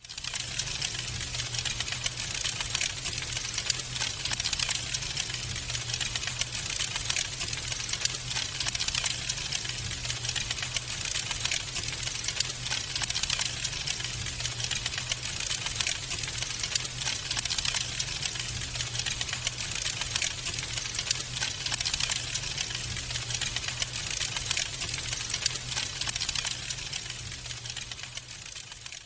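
Wood fire crackling, with dense, fast pops and snaps over a low rumble of flames. It fades away near the end.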